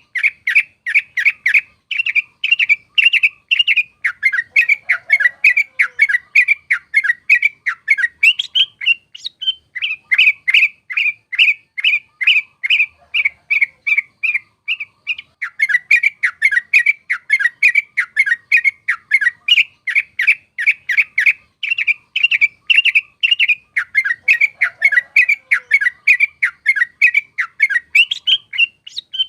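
Yellow-vented bulbul singing a fast, rolling song of clear chirping notes, about four a second, with a couple of short breaks.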